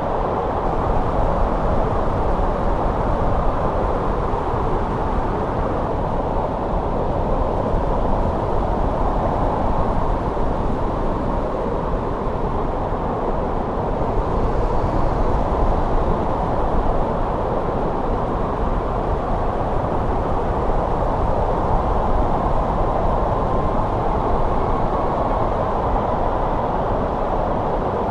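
Steady winter wind blowing: an even, low rushing noise with no single gust standing out.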